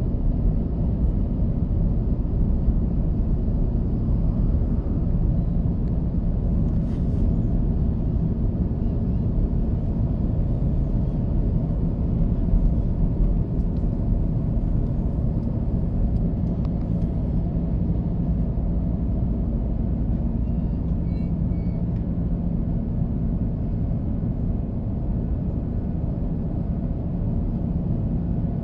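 Steady low rumble of jet engines and rushing air heard inside the cabin of an Airbus A330-300 in flight, with a faint steady hum under it.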